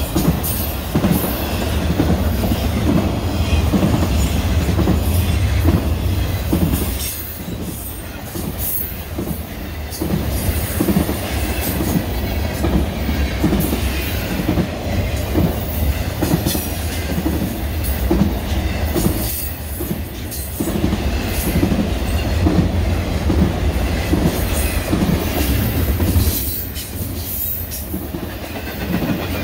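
BNSF intermodal freight train rolling past, its wheels clicking in a steady rhythm over the rail joints under a continuous rumble, with high-pitched wheel squeal coming and going. The loudness dips briefly a few times.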